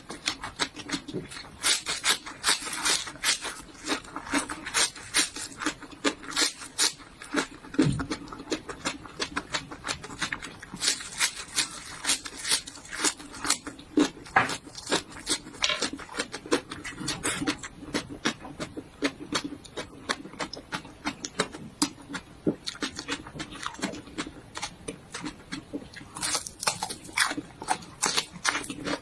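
Close-miked crunching and chewing of raw vegetables (bitter gourd and garlic leaves): rapid, irregular crisp crackles from bites and chews, with a few heavier crunches.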